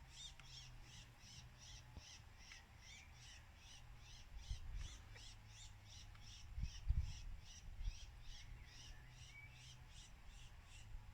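A steady run of short, high-pitched chirps, about three to four a second, with a few soft low thumps in the middle.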